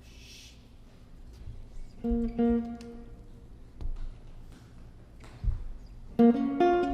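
Seven-string archtop jazz guitar and bass: after a hushed start, two guitar chords ring out about two seconds in, a few low bass notes follow, and fuller, louder playing begins near the end as the tune gets under way.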